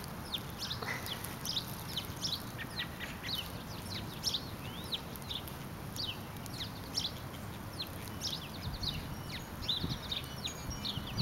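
Small birds chirping: many short, high calls that drop in pitch, following one another quickly and without pause, over a steady low background rumble.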